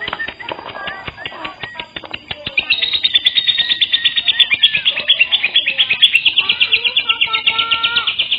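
Lovebird singing: a busy chatter of short chirps and warbles, then from about two and a half seconds in a louder, very rapid run of repeated high notes that carries on to the end.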